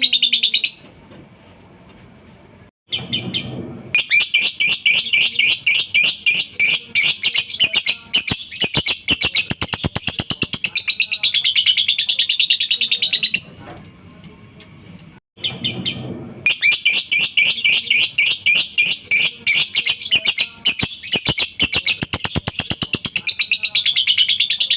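Lovebird singing a long ngekek: long runs of rapid, high-pitched chattering notes, broken twice by pauses of about three seconds.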